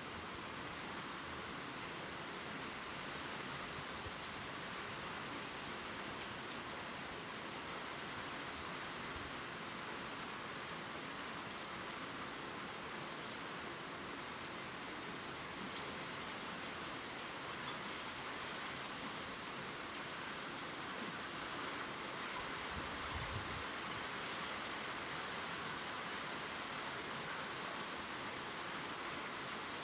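Steady gentle rain falling on leaves, with scattered faint drop ticks and a soft low thud about 23 seconds in.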